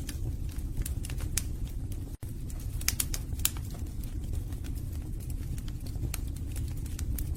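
Wood fire burning in a fireplace: irregular sharp crackles and pops from the logs over a steady low rumble of the flames. There is a momentary cut in the sound about two seconds in.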